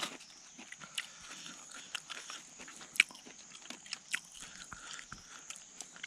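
Someone biting and chewing grilled small birds, with sharp irregular crunches of bone, the loudest about three seconds in.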